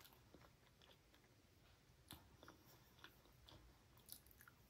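Faint close-up mouth sounds of chewing soft Indian sweets: scattered wet clicks and light ticks, a few each second.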